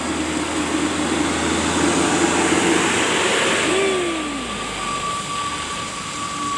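Heavy truck engine running hard under load on a steep climb, a loud steady roar that eases about four seconds in with a falling pitch, after which a thin steady whine remains.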